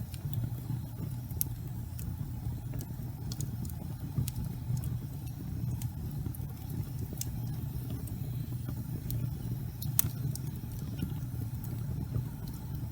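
Fireplace fire burning: a steady low rumble of flame with scattered sharp crackles and pops, the loudest pop about ten seconds in.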